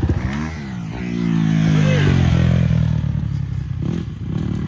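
Dirt bike engine revving, its pitch rising and falling twice in the first two seconds, then running at a steadier speed.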